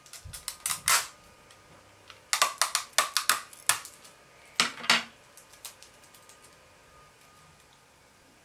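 Sellotape being pulled from the roll and handled: short crackling rips in three bursts over the first five seconds, then only small ticks.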